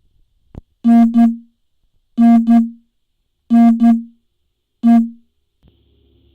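Phone ringing with an electronic ringtone: a loud double note of steady pitch, heard three times about every 1.3 s, then a single note.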